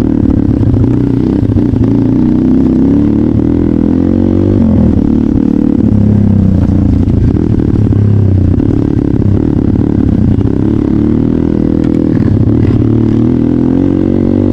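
Trail motorcycle engine running under load, its pitch rising and falling again and again with the throttle, over a rough clattering low end.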